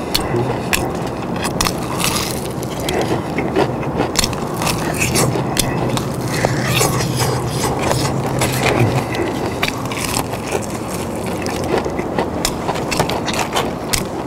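Close-up chewing and biting into crispy fried chicken, the breaded crust crunching in rapid crackles.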